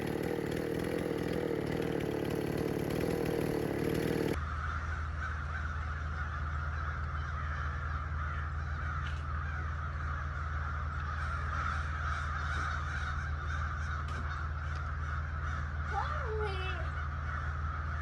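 Chainsaw running steadily for about four seconds, then cutting off abruptly. A steady hum follows, with a few bird calls near the end.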